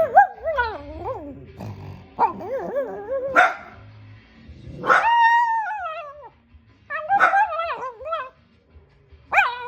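Small dog vocalizing in a string of warbling, pitch-bending yips and howl-like calls, with one longer held call about five seconds in.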